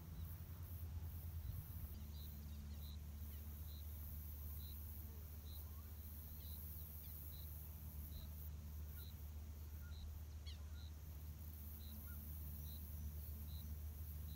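Faint rural riverside ambience: a bird repeats a short high note about once a second, with a few other faint chirps, over a steady low hum.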